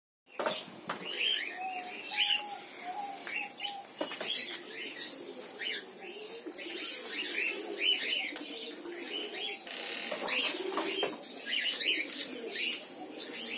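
A flock of lovebirds chattering in a colony aviary: many short, overlapping high chirps.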